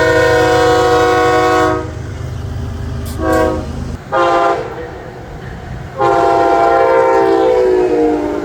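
Locomotive air horn sounding a chord of several notes: a long blast that ends about two seconds in, two short blasts, then another long blast that drops slightly in pitch near its end. A low train rumble sits under the first half and stops suddenly about four seconds in.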